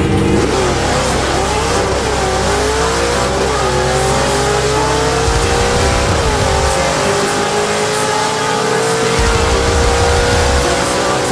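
A naturally aspirated 331 cubic-inch small-block Ford V8 in a Fox-body Mustang at full throttle through the gears of its Tremec manual gearbox on a drag-strip pass. The pitch climbs in each gear and drops at four quick upshifts, at about one, two and a half, three and a half and six seconds in. In the last gear it pulls slowly higher until the end.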